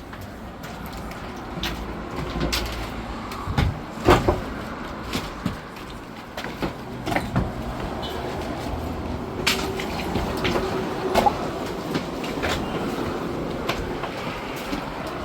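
Flat stone slabs clacking and knocking against one another as they are handled and unloaded by hand from a truck, in irregular sharp knocks; the loudest comes about four seconds in.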